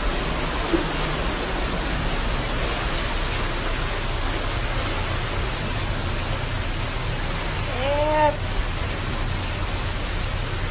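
Steady hiss of heavy hurricane rain, with a short rising-and-falling cry about eight seconds in.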